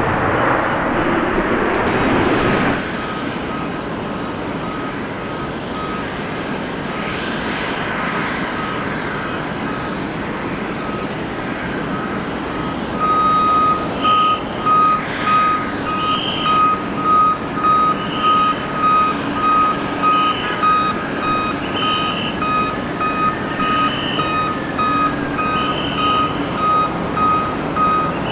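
Jet aircraft noise cutting off in the first few seconds, over steady airport background noise. A ground vehicle's reversing alarm then beeps about once a second, faint at first and much louder from about halfway through.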